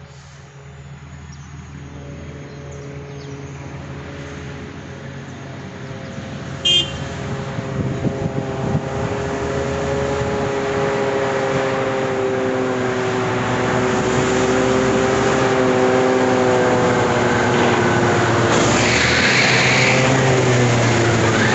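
Large mining dump truck approaching, its engine drone growing steadily louder and its pitch sliding slowly lower as it nears. A short sharp high blip about seven seconds in, and a rush of high hiss near the end.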